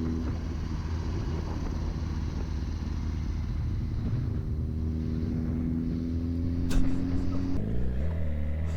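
Motorcycle engine running steadily in traffic. About seven seconds in there is a sharp knock, and just after it the engine note changes abruptly to one that rises and falls.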